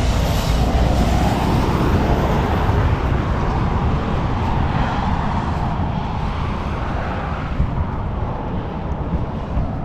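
Car driving on a gravel road: a steady rumble of tyres on gravel mixed with engine noise.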